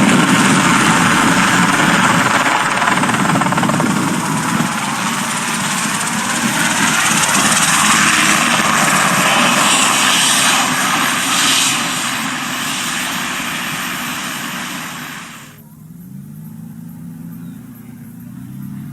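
Helicopter with its rotor still turning after landing, running loudly and steadily, growing somewhat quieter over its last few seconds. It cuts off abruptly about fifteen and a half seconds in, giving way to a quieter engine drone whose pitch rises.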